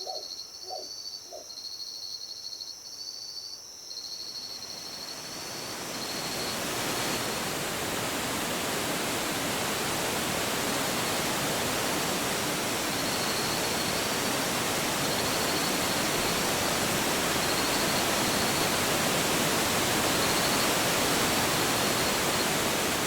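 Night insects chirping in short repeated trills, joined about four seconds in by a steady rushing noise that fades up over a couple of seconds and then holds evenly, with the insect trills still faintly audible through it.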